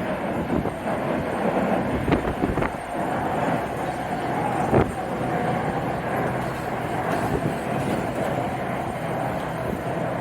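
Jet airliner engines running steadily on the apron, with strong wind buffeting the microphone and a sharp knock about halfway through.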